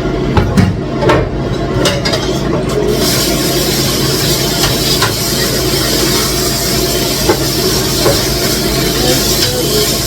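A steady hiss, as of a stew cooking in a pot, with a low hum beneath it and a few light knocks in the first three seconds.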